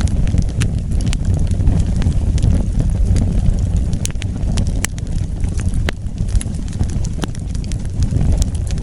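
Wood fire burning: a steady low rumble with scattered sharp crackles and pops coming at irregular intervals.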